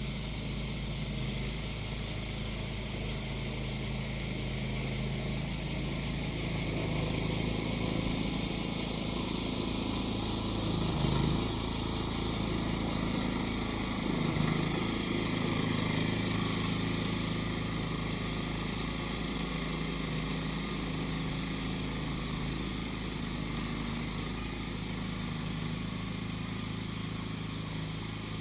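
Small engine of a grass-cutting machine running steadily, its pitch dipping briefly a couple of times around the middle, with cicadas shrilling.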